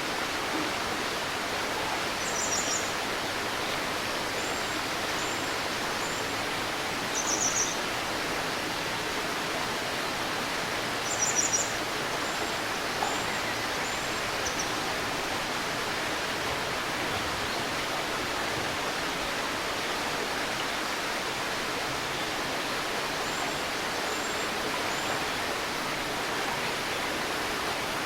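A small river's steady murmuring rush, with birds calling over it: a few short, high trilled phrases in the first half and soft chirps repeated in threes in between and near the end.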